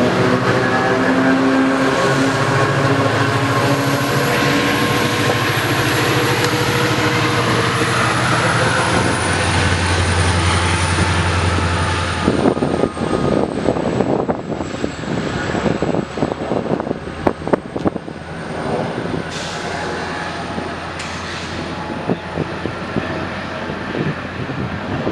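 Diesel train locomotive running, with a steady engine drone and a thin high whine that dips and rises. About halfway through, the drone gives way to irregular clanking and knocking from the train moving over the track.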